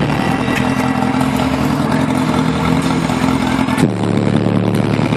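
Motorcycle engine running at a steady speed, with a brief dip in its note about four seconds in before it settles back to the same steady pitch.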